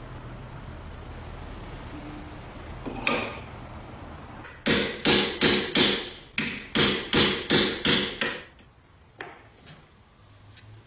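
A run of about a dozen sharp knocks, roughly three a second, each ringing briefly, after a single knock a little earlier.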